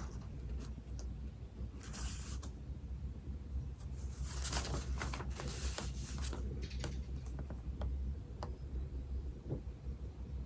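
Writing on paper: scratchy strokes in short runs, the longest and loudest about four to six and a half seconds in, with small ticks between, over a steady low room hum.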